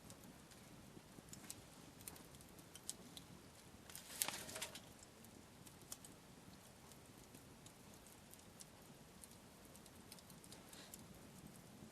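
Wood campfire crackling quietly, with scattered sharp pops and a louder burst of crackles about four seconds in.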